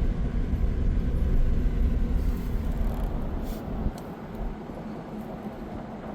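Low road and engine rumble of a vehicle being driven, heard from inside it; the rumble eases off about four seconds in.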